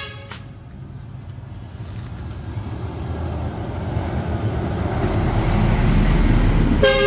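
Road traffic: the rumble and tyre hiss of a vehicle grow louder as it comes close. A horn ends just after the start, and another honks briefly near the end.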